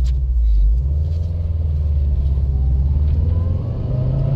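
Car pulling away and accelerating, heard inside the cabin: steady low road and engine rumble, with the engine's tone rising in pitch over the last couple of seconds. At this low speed it still sounds normal, without the bad wheel bearing's hum standing out.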